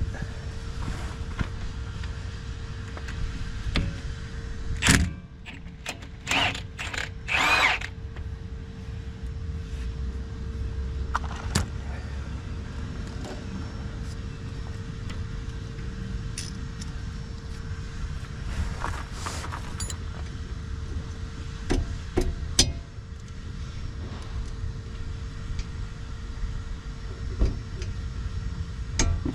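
A cordless power tool runs in short bursts, about five seconds in, again from six to eight seconds, and near the middle, with scattered metal clinks and clanks of tools and parts, all over a steady low hum.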